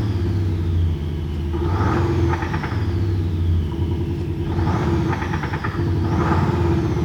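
Jeep Wrangler engine and exhaust note, amplified by an aftermarket JSR active sound system: a steady deep rumble, revved about three times with rising and falling swells.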